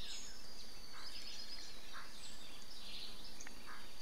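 Forest birds calling: short high calls about once a second, with a quick series of chattering notes about a second and a half in, over a faint steady high whine.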